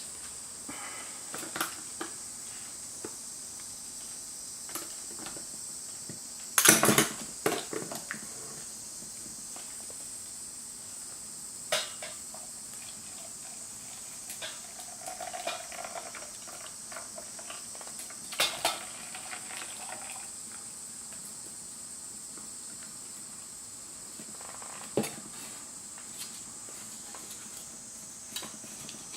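Cookware and utensils clinking and clattering now and then, with the loudest clatter about a quarter of the way in, over a steady high-pitched background tone.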